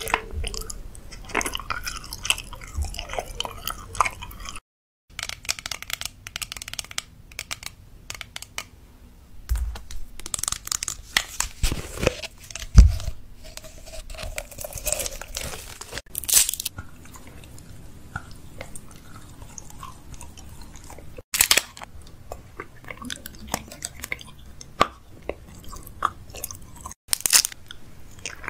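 Close-miked chewing and crunching of food, with crisp bites and crackles. It breaks off in a few brief silent gaps where one clip cuts to the next, and the loudest crunch comes about halfway through.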